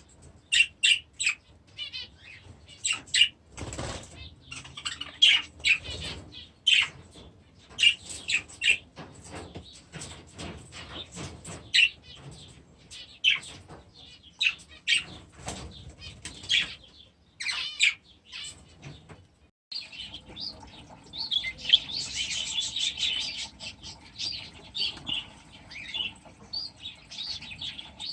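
Small aviary birds chirping in short, high calls, with wings flapping now and then as they fly about. After a brief gap about twenty seconds in, the chirping grows denser.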